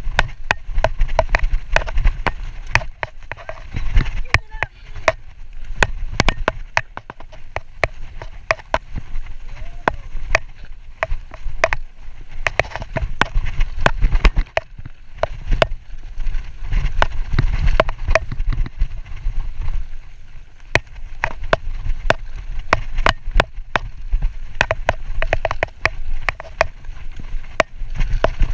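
Mountain bike being ridden down a rough dirt trail: many sharp clacks and rattles from the bike jolting over the ground, over a steady low rumble.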